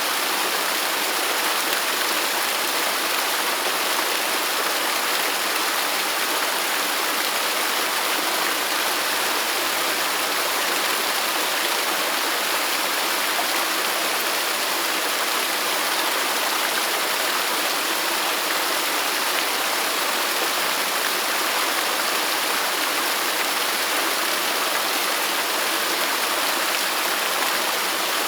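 Waterfall: a steady, unbroken rush of falling water, an even hiss with no music.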